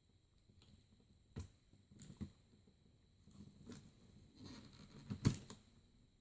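Plastic toy packaging being handled: scattered light clicks and taps, then a burst of crackling with a sharp plastic snap about five seconds in, a plastic packaging lock giving way.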